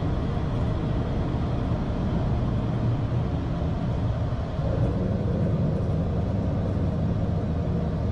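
Steady rumbling noise of a Boeing 737-800's engines at takeoff thrust and the rushing airflow, heard inside the cockpit during the initial climb just after liftoff.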